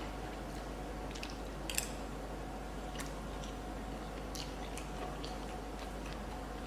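A person chewing a mouthful of food, with scattered small crunches and mouth clicks.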